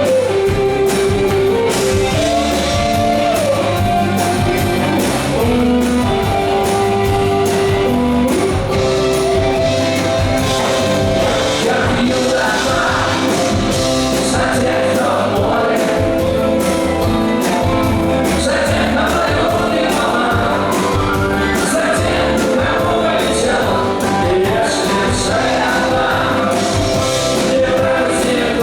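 A rock band playing live, with drum kit, guitars and keyboards under sung vocals that come forward about halfway through.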